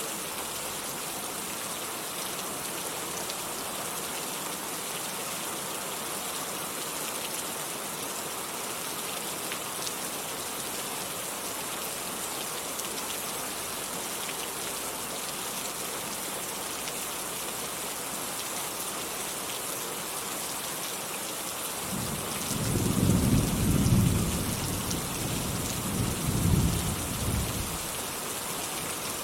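Steady rain falling, with a deep roll of thunder about 22 s in that swells twice and fades out some six seconds later.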